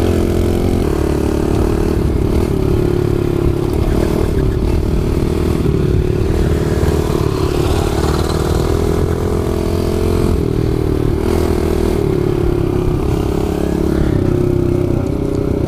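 Kawasaki KLX110 pit bike's small four-stroke single-cylinder engine running at a fairly steady throttle while being ridden, its pitch holding nearly level.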